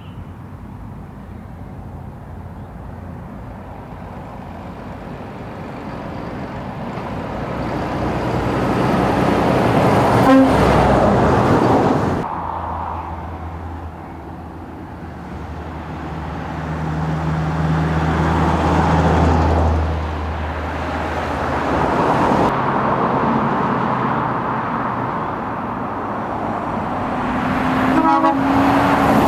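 Heavy truck engines passing one after another, swelling and fading as each goes by, with a short horn toot about ten seconds in and another near the end.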